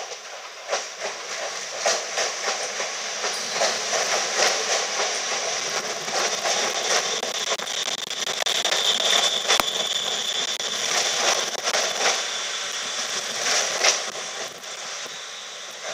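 A TransPennine Express Class 350 Desiro electric multiple unit pulls into the platform close by, its wheels clattering rhythmically over the rail joints. A high squeal runs through the middle of the pass, and the sound eases off near the end as the train slows.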